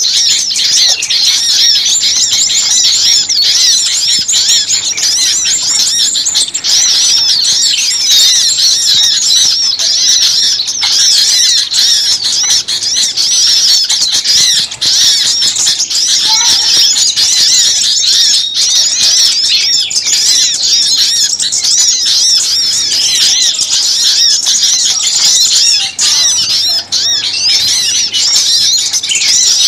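A dense, unbroken chorus of many small songbirds chirping and chattering at once, high-pitched and loud: a mixed-species small-bird lure recording of birds in noisy commotion, the kind played to draw small birds in.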